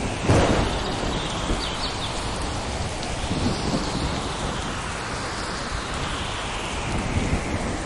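Steady rain falling through a thunderstorm, with low rolling thunder underneath. A sudden loud crack comes a fraction of a second in.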